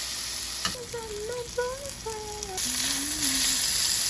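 Food sizzling in a frying pan: a steady frying hiss that grows louder a little past halfway.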